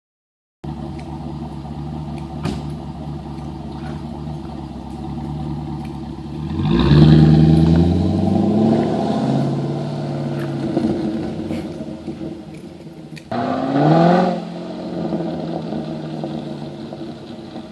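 Pontiac G8 GXP's 6.2-litre LS3 V8 running through an X-pipe, rear cat delete and Solo axle-back mufflers. It idles steadily, is revved about seven seconds in and settles back over a few seconds, then gets a quick sharp blip about thirteen seconds in before returning to idle.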